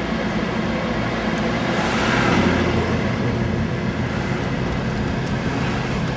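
Steady car engine and road noise heard from inside a moving vehicle, with a brief swell of rushing noise about two seconds in.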